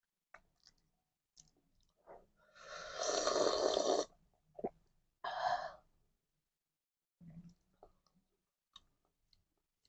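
Close-up mouth sounds of a person eating: faint smacks and clicks, with a loud breathy rush of air lasting about a second and a half near the middle, and a shorter one soon after.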